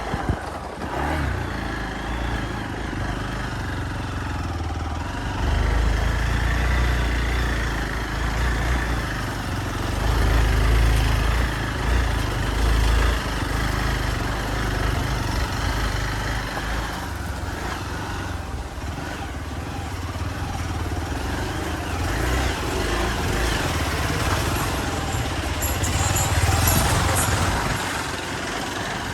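Hero XPulse 200 single-cylinder motorcycle engine running while being ridden over rough off-road track, its sound rising and falling with the throttle.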